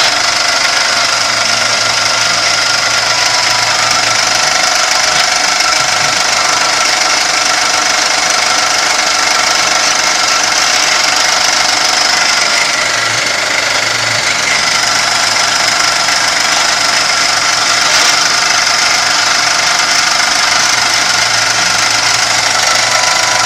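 Kami FKM 350 PL machine running, a steady mechanical noise with several high whining tones and a low hum that swells and fades three times. This is the strange noise the owner hears from its Y axis.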